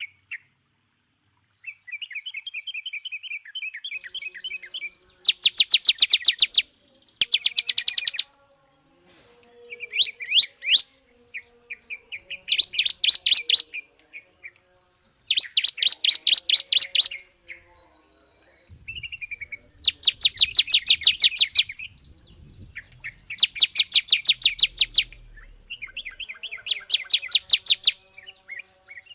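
A songbird singing in loud, very fast trills, each burst of rapid repeated notes lasting a second or two, with softer twittering between the bursts.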